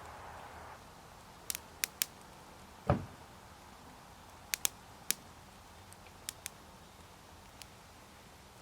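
Scattered sharp clicks and snaps, several in quick pairs, with one heavier knock about three seconds in.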